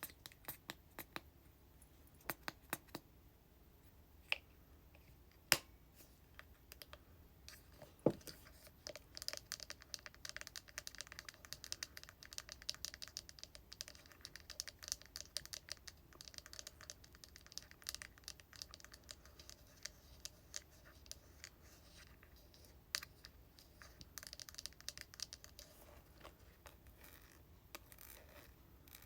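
Fingernails tapping on hair product containers: a handful of separate, spaced taps at first, then from about eight seconds in a long stretch of fast, close-set tapping and scratching that thins out again near the end.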